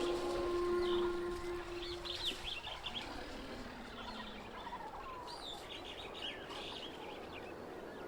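Wild birds chirping and calling in quick, rising and falling notes over a steady outdoor hiss, with a held low note of the background score dying away in the first two seconds.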